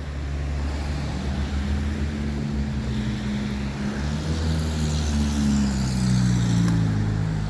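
A motor vehicle's engine running close by, a low steady hum whose pitch sags slightly near the end. A swell of hiss comes in about five to six seconds in.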